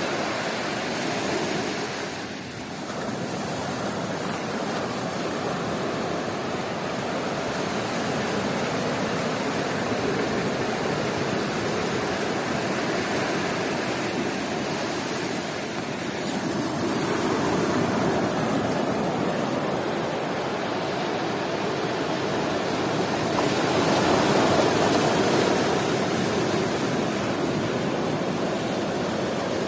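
Sea waves breaking and washing up the beach in a continuous surf roar that swells and eases, with bigger surges about halfway and again about four-fifths of the way through.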